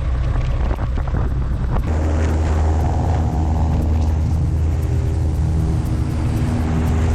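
Small propeller airplane's engine running loud and steady. About two seconds in it changes to a smoother, deeper drone with a steady hum.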